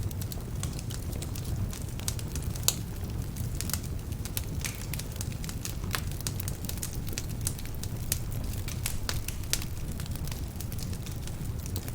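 Wood fire burning in a fireplace: logs crackling and popping in irregular snaps over a steady low rumble of the flames, with one louder pop about three seconds in.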